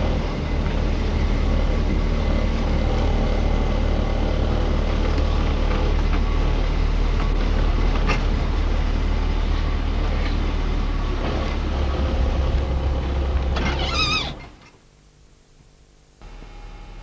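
Car engine and road noise heard inside a moving car, a steady loud rumble with a strong low hum. About fourteen seconds in there is a brief warbling squeal, then the sound drops away abruptly to near quiet, and a fainter steady hiss comes back near the end.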